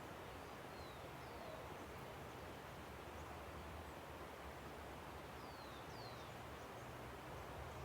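Steady, faint rush of a river, with a few brief, falling bird chirps over it now and then.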